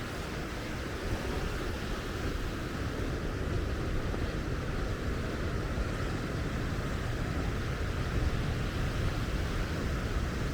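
Steady outdoor wind and ocean surf noise: an even, continuous rumble, heaviest in the low end, with no distinct events.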